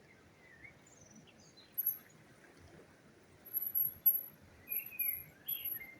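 Small birds chirping and twittering outdoors: short warbling calls mixed with brief, very high, thin notes repeated several times in the second half.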